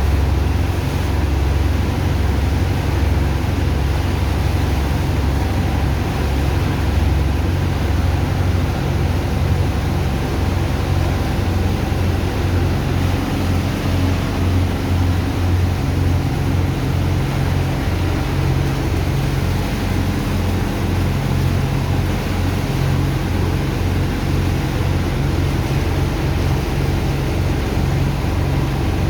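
Engine of a sand-unloading dredger pump running steadily: a low drone that throbs in a regular beat, over a rushing hiss of pumped water and sand.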